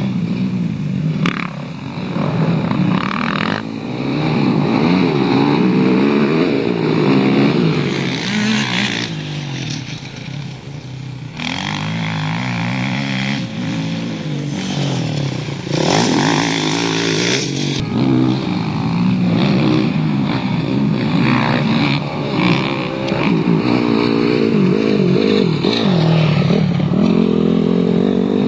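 Motocross bike engines revving hard, the pitch rising and falling over and over with throttle and gear changes. The sound breaks off abruptly every few seconds and picks up again with another pass.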